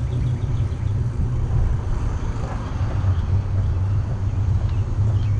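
Steady low rumble of wind buffeting the microphone on a bicycle being ridden.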